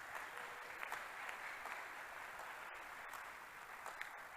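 Congregation clapping, a steady spatter of many hands with scattered sharper claps, in answer to the preacher's call to clap.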